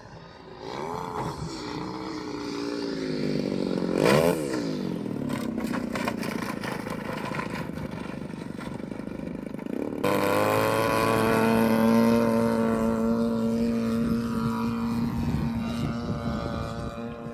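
Gasoline engine of an RC scale Stinson Reliant model plane in flight, its note gliding in pitch and dropping sharply as the plane passes close about four seconds in. About ten seconds in it jumps to a louder, steady engine note.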